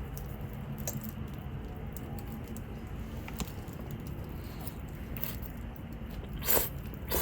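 Quiet eating at a meal: a few light clicks of utensil or container, then two short, sharp breaths through a congested nose near the end.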